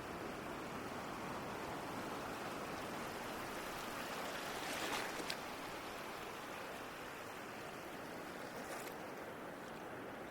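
Ocean waves washing in steadily. One wave swells and breaks about halfway through, and a smaller one breaks near the end.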